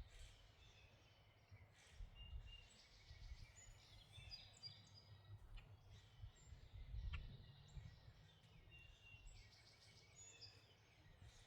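Faint songbirds chirping and whistling short notes, many scattered calls, over a low steady rumble.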